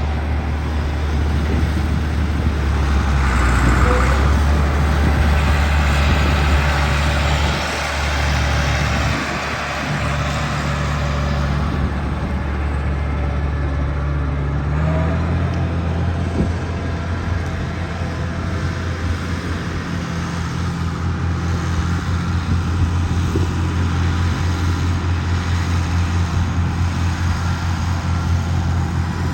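Massey Ferguson 1135 tractor's Perkins six-cylinder diesel engine running steadily. It grows louder for a few seconds after the start, and its note steps up slightly about halfway through.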